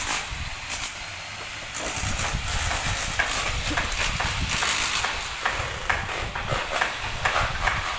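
Work-site noise: a steady hiss and low rumble, with a run of sharp knocks and clacks from about three seconds in.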